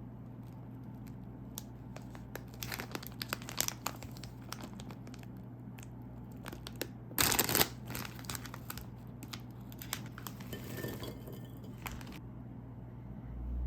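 Plastic snack wrapper crinkling as it is handled, with one loud tearing burst about seven seconds in as the corn snack bag is torn open.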